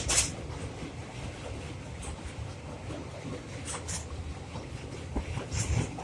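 Train running across a railway bridge: a steady low rumble of wheels on the track, with occasional sharper clacks scattered through it.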